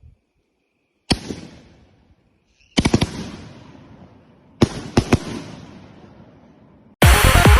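Fireworks going off: one sharp bang about a second in, then two clusters of quick bangs a couple of seconds apart, each trailing off. Loud electronic music starts suddenly near the end.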